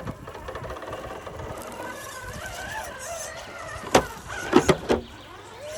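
1/10-scale RC rock crawler's electric motor whining, its pitch rising and falling with the throttle, with a few sharp knocks about four seconds in.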